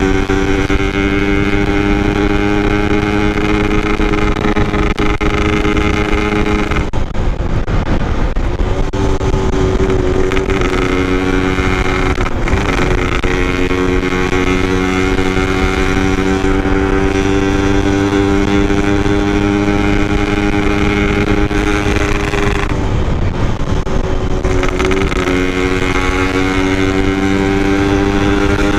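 Yamaha RX-King 135cc two-stroke single-cylinder motorcycle engine and exhaust, heard from the rider's seat while riding at a steady engine speed, with rushing wind and road noise underneath. The engine note drops out briefly three times and picks up again.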